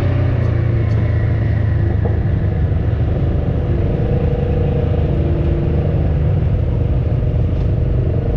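Off-road vehicle engine running, a steady low rumble, with a faint steady whine coming in about four seconds in.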